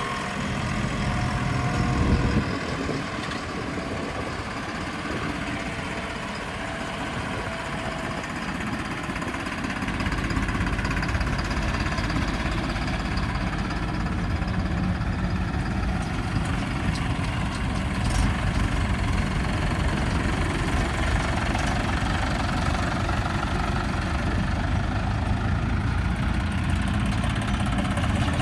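Heavy diesel engine running steadily at a low idle, getting louder and deeper about ten seconds in.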